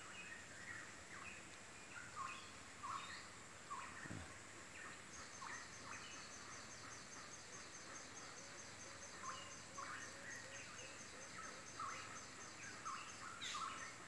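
Several tropical forest birds calling faintly, a scatter of short rising notes. From about five seconds in, a rapid, evenly pulsed high insect trill runs beneath them and stops shortly before the end.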